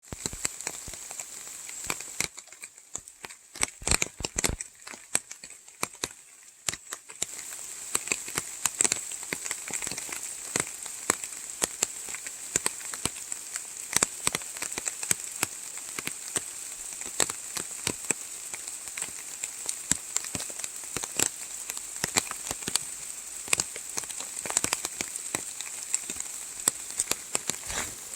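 Rain in a redwood forest: a steady hiss of rainfall with many irregular, sharp drops hitting close by, and a faint steady high-pitched tone underneath.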